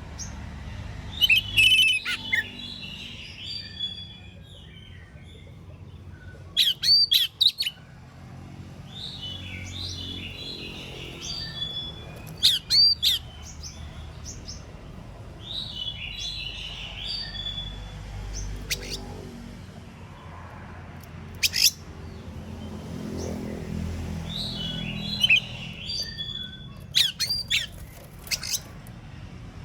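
Oriental magpie-robin singing loud, varied phrases of sharp sweeping whistles and chattering notes, in about eight bursts a few seconds apart, over a steady low hum.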